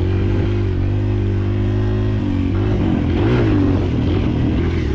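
Kawasaki KLX140L dirt bike's single-cylinder four-stroke engine running under throttle at fairly steady revs, the pitch dipping and rising as the throttle is worked about halfway through.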